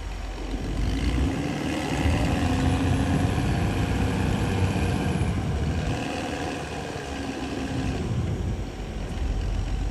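Diesel engine of a CAT D6R XL crawler bulldozer running, its note rising and falling twice as the engine speed changes.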